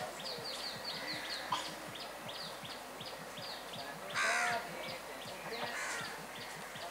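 Birds calling: a quick run of short, high, falling chirps for the first three seconds, then a single harsh, loud call about four seconds in and a weaker one near six seconds.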